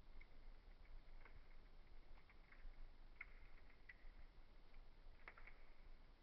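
Faint, sparse crackling of a wood fire: scattered small pops and ticks, with a slightly louder cluster of pops about five seconds in.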